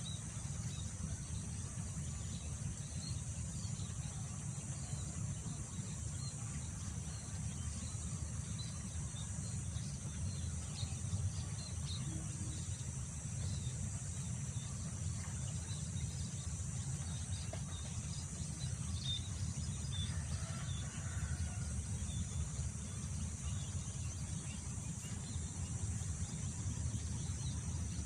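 Wind buffeting the microphone as a steady low rumble, over a constant high-pitched insect drone and scattered faint chirps.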